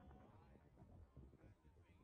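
Near silence, with faint, indistinct voices of people talking.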